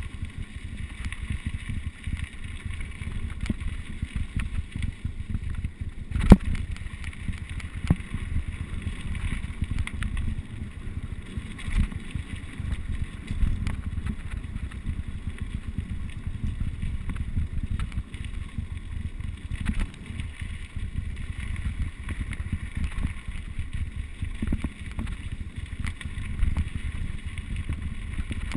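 Mountain bike riding downhill on a rough trail: wind buffets the camera microphone over a steady rumble of tyres on rough ground, with frequent clicks and knocks and one sharp knock about six seconds in.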